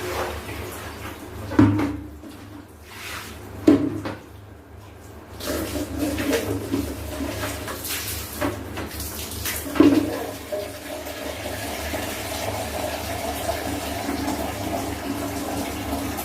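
Water splashing, with three sharp splashes or knocks, then running steadily from about five seconds in, as in hand-washing clothes with buckets and a tap.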